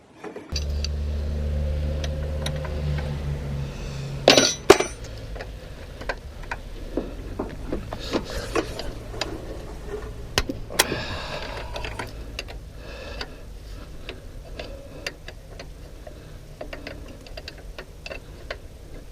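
Hand tools working on metal: scattered clicks, taps and small clinks, with two loud metal clanks about four and a half seconds in, over a steady low hum that is strongest in the first few seconds.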